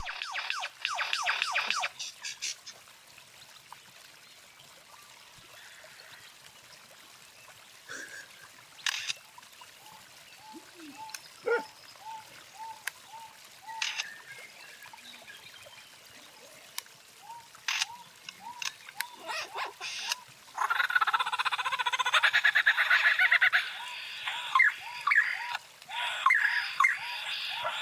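Wild birds calling: a rapid trill at the start, then scattered chirps and a short rising-and-falling note repeated about twice a second, joined about three-quarters of the way in by a loud, dense chorus of chirping.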